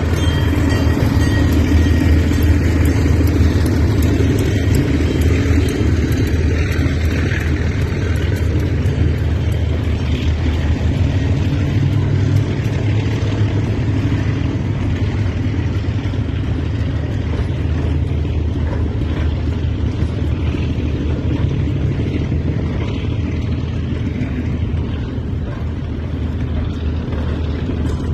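Narrow-gauge train running with a loud, steady low rumble that eases off a little toward the end.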